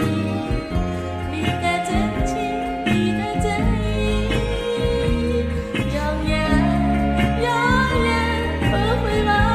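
A singer's voice, wavering on held notes, performing a slow Mandarin ballad over an instrumental backing track with a steady bass line.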